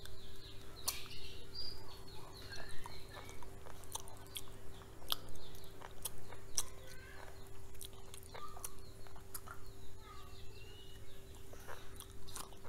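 Close-up eating sounds: chewing with many sharp mouth clicks and smacks. Short bird chirps are heard now and then in the background.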